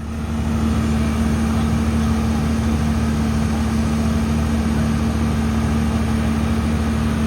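Fire engine's diesel engine idling steadily with a constant low hum, coming up to full loudness in the first half second.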